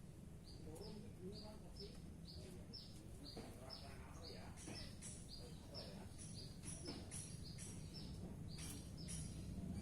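Greater green leafbird (cucak ijo) singing a fast series of short, repeated falling notes, about three a second, with higher, sharper notes joining in about halfway through.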